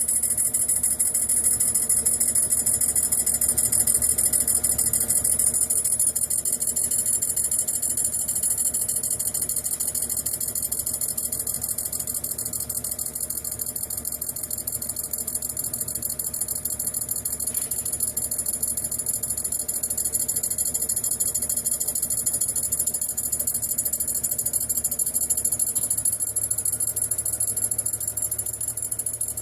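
Brown & Sharpe No. 1 OD cylindrical grinder running steadily as it grinds a cylinder, a constant high hiss over a low machine hum.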